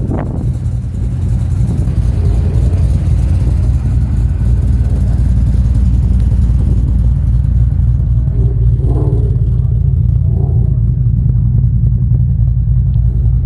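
Ford Mustang 5.0 Coyote V8 idling steadily through an off-road X-pipe exhaust, with a deep, lumpy rumble from its ghost-cam tune.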